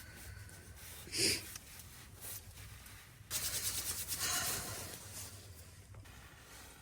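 Rubbing and rustling, with a short knock about a second in and a longer, louder rustle from about three seconds in.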